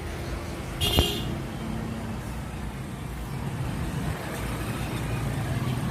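Motorcycle engine running steadily, with one sharp click about a second in.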